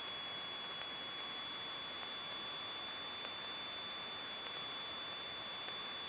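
Cessna 152 cockpit intercom feed between transmissions: a steady hiss with a high, steady whine, and faint regular ticks about every second and a quarter.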